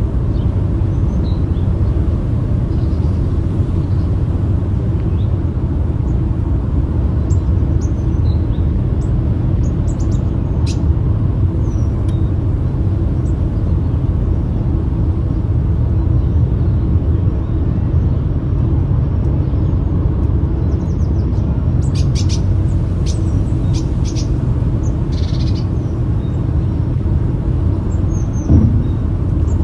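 A steady low rumble throughout, with short high bird chirps and calls over it, in clusters about a quarter of the way in and again about three quarters in.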